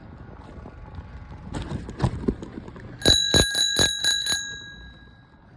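Bicycle bell rung rapidly, about six quick dings in a second and a half, its ring fading away over the next second. A few thumps come shortly before it.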